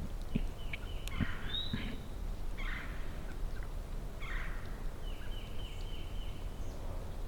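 Wild turkey gobbler gobbling three times in rattling bursts, about a second in, near three seconds and past four seconds.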